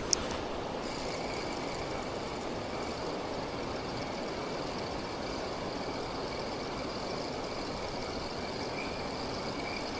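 Steady rushing of water pouring over a weir, even and unchanging, with one sharp click right at the start.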